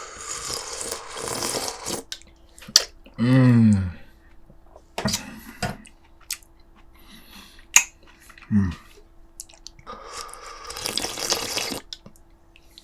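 Wet eating sounds from braised pork ribs and kimchi: slurping and sucking with small clicks scattered through. A loud falling hum of approval comes about three seconds in, and a shorter one just past the middle.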